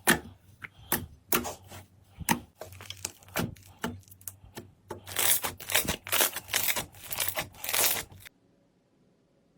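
Slime being pressed and squeezed by hand, making sharp crackling crunches. The crunches come thicker and longer about five seconds in, then stop abruptly near the end.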